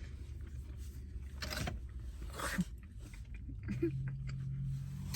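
Chewing and mouth sounds from eating a bite of a coney dog, with a few light rustles, over a low steady hum inside a car.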